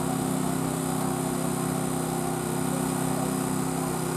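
Small engine running steadily at a constant speed, without revving.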